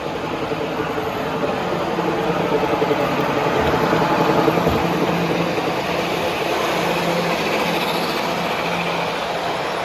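Model train running on a layout, its motor hum and wheel noise swelling to a peak about halfway through and then easing off, over the steady hum of a busy exhibition hall.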